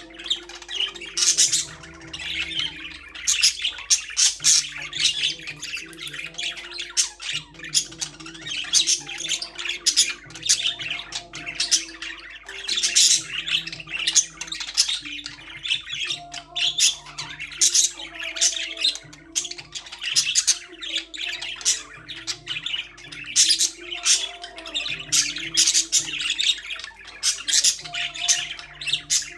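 Budgerigars chattering: a dense, unbroken stream of rapid squawks and chirps, several short calls a second.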